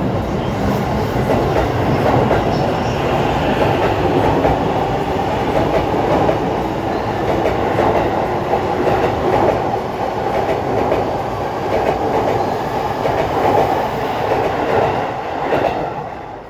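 E233-1000 series electric train moving along the platform, wheels rumbling and clattering over the rail joints. It fades away sharply near the end as the last car passes.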